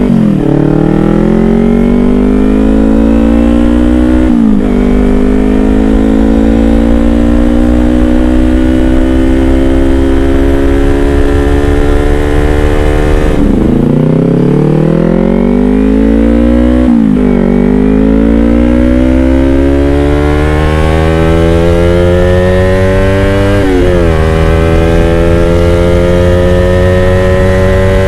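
Yamaha R25's 250 cc parallel-twin engine accelerating through the gears on a DX Generation Racing Undertail dual-silencer exhaust running open, without its dB killer. The exhaust note climbs steadily in pitch, then drops sharply at each gear change, about four times.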